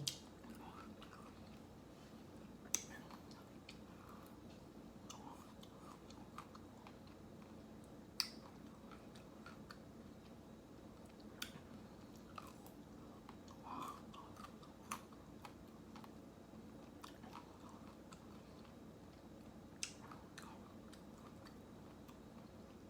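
Close-miked chewing and biting of ice cream, soft and wet, with occasional sharp mouth clicks and smacks.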